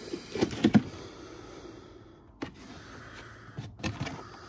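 Loose hard objects being handled: a quick cluster of sharp knocks and clinks under a second in, then a couple of single clicks later, with faint rustling between.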